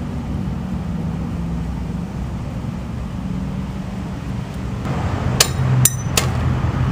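A steady low background hum. Near the end come three sharp metal clicks as parts of a double-cylinder gate deadbolt are handled and knocked together while it is taken apart.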